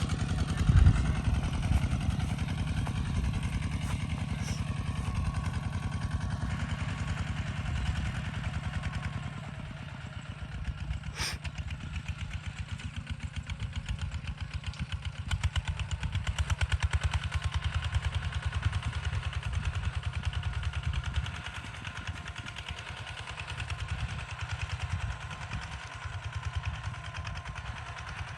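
Kubota ZT140 single-cylinder diesel engine chugging at a steady beat while the tractor plows, its loudness rising and falling, with a sharp metallic click about eleven seconds in.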